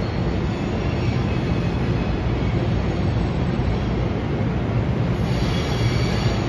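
Steady low hum and rumble of a New Jersey Transit train in the station, with no clacks or squeals; a faint high whine joins in near the end.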